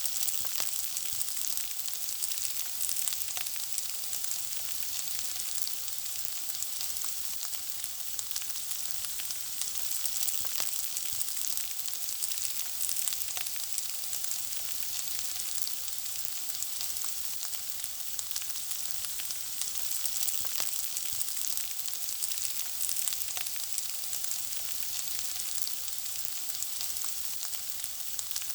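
Food frying in hot oil: a steady sizzle, dense with tiny crackles and pops.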